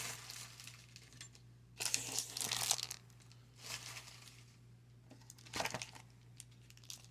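Crinkling and rustling of trading-card pack wrappers and cards being handled, in several short bursts a second or two apart.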